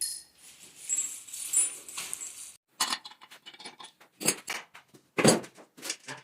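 Light metallic clinking and jingling of tools and engine parts, then a series of about eight short, sharp noises spaced roughly half a second to a second apart.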